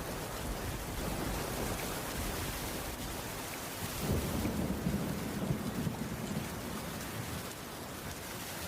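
Heavy rain falling steadily. A low rumble of thunder swells about four seconds in and dies away over a couple of seconds.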